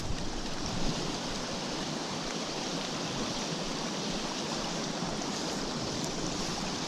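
Small stream's running water rushing steadily.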